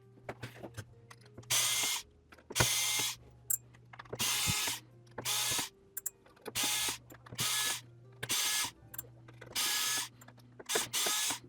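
Small electric screwdriver backing out the tiny screws of a remote controller's circuit board, running in about nine short bursts of about half a second each, with small clicks in between.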